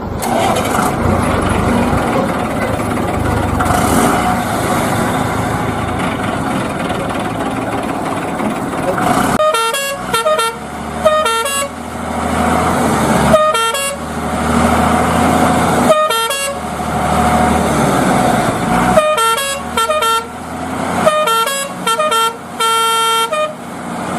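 Cartoon sound effects of heavy vehicles: a dense engine-like rumble for the first nine seconds or so, then repeated short horn toots, in quick groups, breaking in over further stretches of engine noise.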